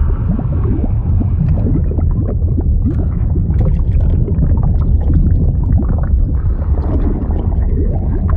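Liquid bubbling and gurgling over a deep, steady rumble, with many short bubbles rising and popping throughout.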